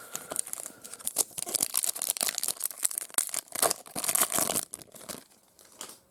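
A foil trading-card pack wrapper being torn open and crinkled, a dense run of crackling and tearing for about five seconds that dies away near the end.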